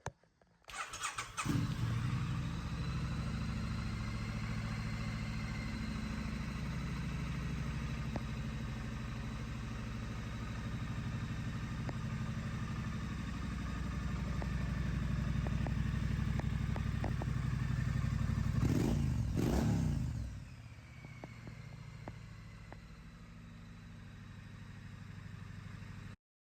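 Triumph Street Scrambler 900's parallel-twin engine starting about a second in and idling steadily. The throttle is blipped twice near the end, and the engine then runs more quietly.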